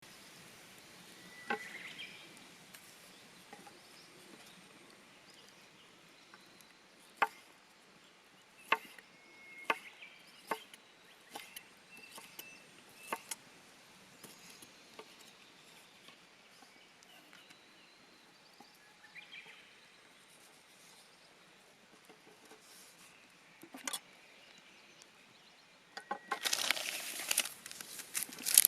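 Quiet outdoor background with scattered sharp snaps and clicks, then about two and a half seconds before the end a dense burst of crinkling, like wrapping material being handled.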